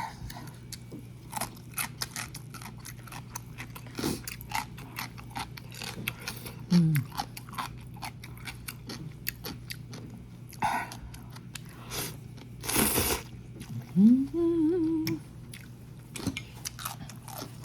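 Close-up mouth sounds of a person eating instant noodles: chewing with many small wet clicks, and a short hummed "mmm" about fourteen seconds in.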